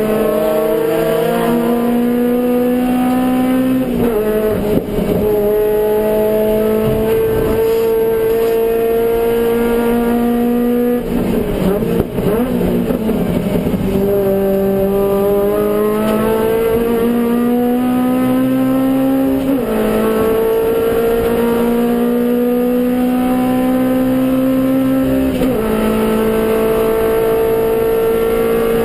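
Suzuki Swift GTi's G13B 1.3-litre twin-cam four-cylinder engine at racing speed: the engine note climbs steadily, then drops sharply at each upshift, about four seconds in, near twenty seconds and again near twenty-six. Around the middle the note turns rough and unsettled, as under braking and downshifting into a corner.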